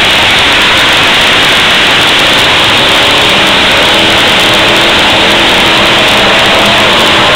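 Engines of several demolition derby cars revving together, loud, with pitch rising and falling as the cars drive and ram each other.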